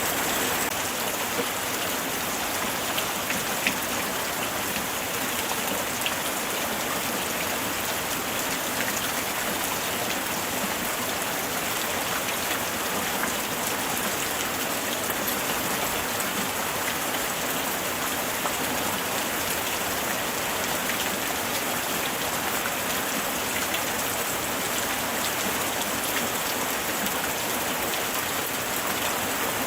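Steady light rain falling, a constant hiss of drops with scattered small drop ticks.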